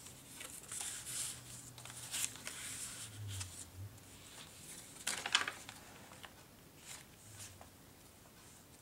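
Paper and card rustling faintly as the flaps and pages of a handmade junk journal are handled and flipped, with a few crisper rustles about two and five seconds in.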